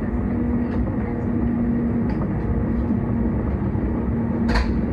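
S-Bahn electric train running between stations: a steady rumble of wheels on track under a steady low traction hum, with a sharp click about four and a half seconds in.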